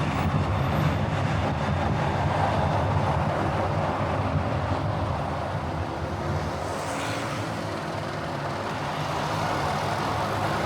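A car driving at a steady pace: a continuous low engine drone mixed with road and tyre noise.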